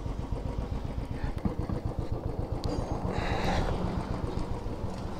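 Motorcycle engine idling with a steady, even low beat, with a brief hiss about three seconds in.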